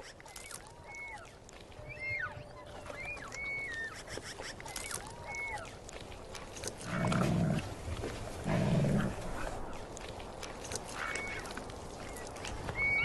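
Wolves feeding on a deer carcass, with short high whining calls repeating about once a second and two louder low snarls, about seven and eight and a half seconds in.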